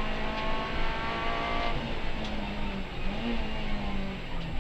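Honda Civic Type-R FN2 rally car's 2.0-litre four-cylinder engine pulling hard, heard from inside the cabin over road and tyre noise. Its pitch climbs for about the first second and a half, then drops and wavers lower for the rest.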